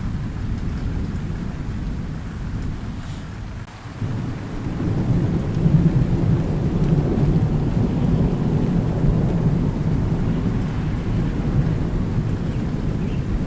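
Thunderstorm: rain falling steadily under rolling thunder. The rumble eases, then a new roll of thunder breaks in suddenly about four seconds in, swells over the next few seconds and keeps rumbling.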